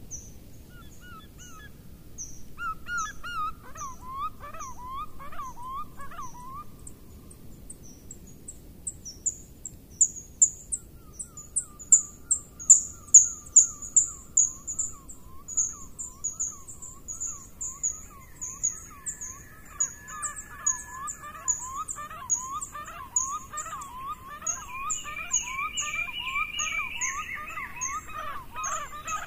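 Birds calling: a steady run of quick, high chirps, joined by a lower call repeated several times a second, first briefly a few seconds in and again from about eleven seconds on.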